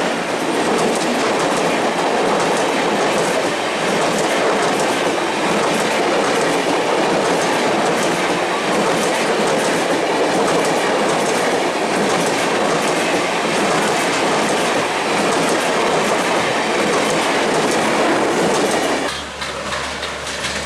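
Bangladesh Railway passenger train rolling past close by, its coaches making a loud, steady rumble. The noise drops away suddenly near the end as the last coach clears.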